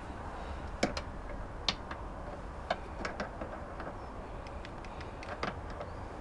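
Hand grease gun being worked at a mobility scooter's steering ball joints: irregular light clicks and taps, the sharpest about a second in, near two seconds in and a little after two and a half seconds, over a low steady hum. The gun is empty, so no grease is going in.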